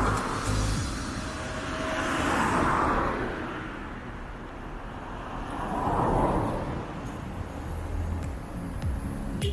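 Road traffic: cars passing one after another, each a rushing swell that rises and fades, three in all, with low rumble from wind on the bike-mounted microphone.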